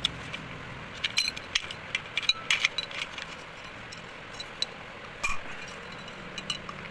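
Metal tools clinking and tapping as a bearing puller is set onto a ceiling fan motor's ball bearing: scattered sharp clinks, thickest in the first three seconds, with another about five seconds in.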